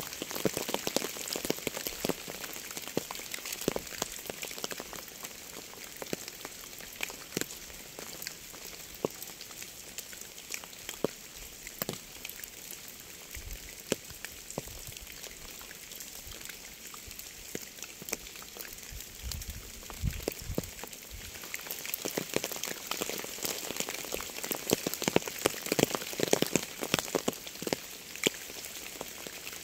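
Steady rain: a constant hiss with many separate drops ticking, the drops growing denser in the last third. A brief low rumble comes in twice, just before halfway and at about two thirds of the way through.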